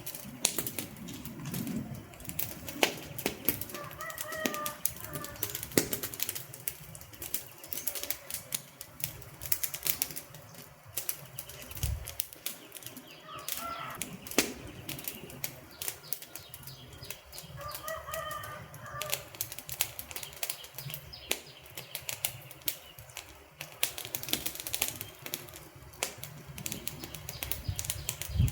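Wood fire crackling and popping in quick, irregular snaps over a low hiss. A short pitched call, likely a bird, sounds three times in the background.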